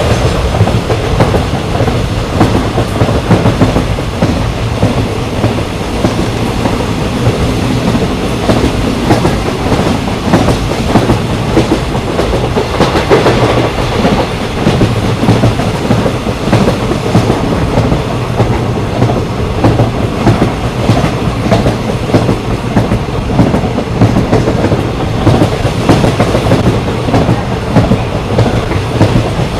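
Passenger train running at speed: steady rumble of the coaches with a continuous clickety-clack of wheels over rail joints.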